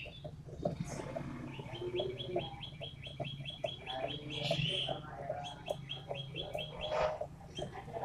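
A 'toed matahari' songbird singing loud, sharp song: fast runs of short high notes, about eight a second, one starting about two seconds in and another near six seconds, with scattered lower chirps over a steady low hum.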